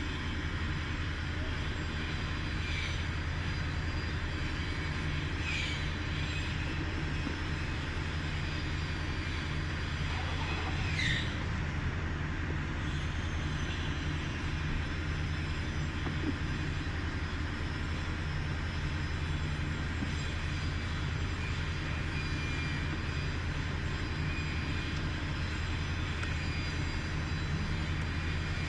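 Ford Crown Victoria V8 engine idling steadily; the scanner reads this engine as misfiring on cylinders 5 and 6. Three brief high falling chirps sound over it, about 3, 5 and 11 seconds in.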